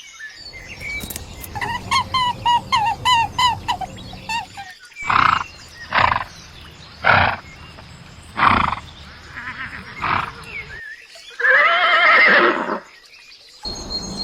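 Horse whinnying: a quavering call of rapid pulses near the start and another strong, wavering call near the end, with several short breathy bursts in between.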